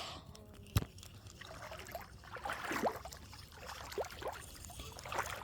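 Footsteps wading through shallow water, with irregular splashing and sloshing and one sharp click about a second in.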